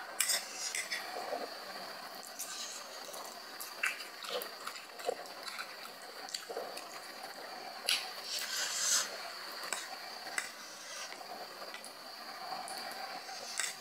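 Close-up eating sounds of spicy instant noodles and scrambled egg: irregular wet mouth smacks and clicks while chewing, with a short louder stretch about eight seconds in, over a faint steady high whine.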